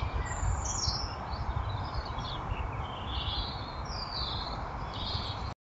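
Small garden birds calling in short, scattered chirps over a steady low rumble and hiss. The sound cuts off abruptly near the end.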